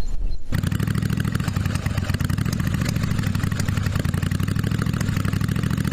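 1982 Yamaha Virago 750's air-cooled V-twin engine idling steadily, cutting in abruptly about half a second in. The owner takes the front cylinder to be running lean, which he blames on exhaust leaks.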